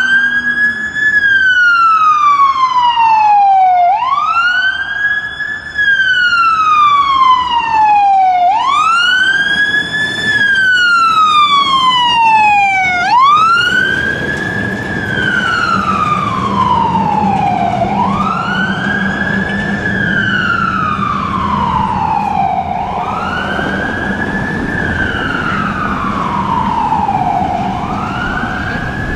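Fire engine siren wailing: each cycle rises quickly and falls slowly, repeating about every four and a half seconds. In the second half it grows softer and duller, under a steady low hum.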